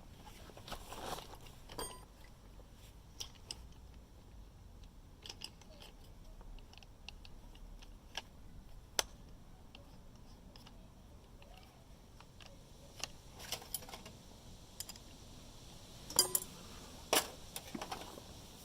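Scattered light metallic clicks and taps of hand tools and small metal parts being handled during scooter work. The loudest clicks come about halfway through and again near the end.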